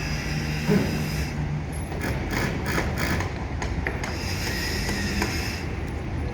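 Steady mechanical din of heavy construction machinery, with a run of rapid clicking and rattling about two to three seconds in.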